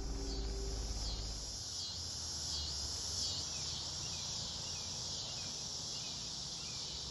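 Insects chirping in a steady high chorus, with a chirp repeating roughly every half-second. Soft background music fades out in the first second.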